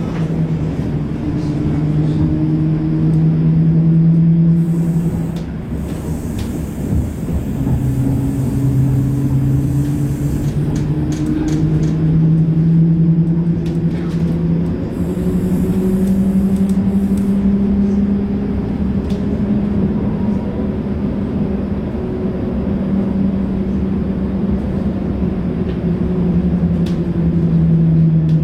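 Tram running on rails, its electric drive humming steadily over a low rumble. The hum's pitch drops about five seconds in, then climbs slowly and levels off, falling again near the end as the tram changes speed. There are a few light clicks and two short bursts of hiss along the way.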